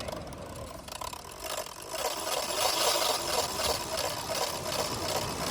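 Heavy shark-fishing reel clicking rapidly under the load of a hooked hammerhead shark, growing louder about two seconds in.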